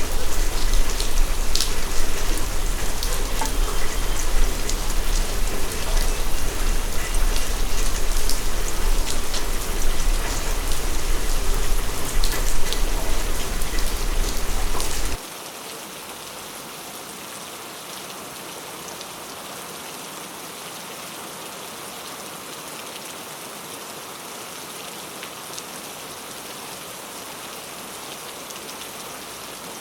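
Heavy rain falling, with a deep low rumble and many sharp drop hits. About halfway through it cuts off suddenly to a much quieter, even hiss of lighter rain.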